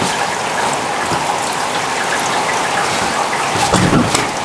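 Heavy rain falling steadily, a dense hiss with individual drops ticking close by. A brief low rumble rises near the end.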